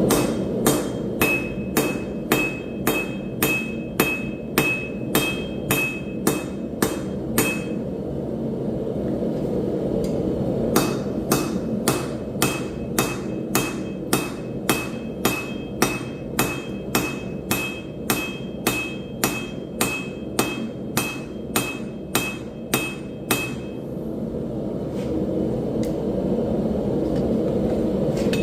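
Hand hammer striking hot steel on an anvil in steady forging blows, about two to three a second, each with a bright ring, in two runs with a pause of a few seconds between. A steady low rushing noise runs underneath.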